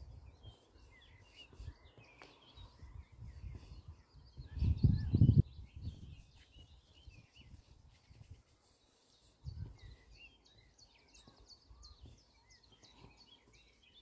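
Songbirds chirping and singing all around, many short overlapping calls and trills. About five seconds in comes a brief low rumble, the loudest sound.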